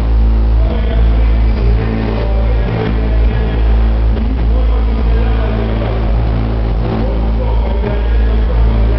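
Competition car audio subwoofer system in a van playing bass at extreme volume for an SPL contest: a steady, heavy low bass with a rough buzz above it.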